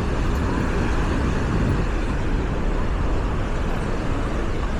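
Steady rushing beach ambience of surf and wind on the microphone, with a heavy low rumble and faint crowd voices.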